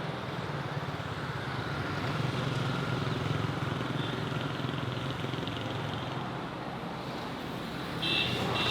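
A motor vehicle running steadily, engine hum and road or wind noise, as on a ride. Near the end, a few high chirping tones come in.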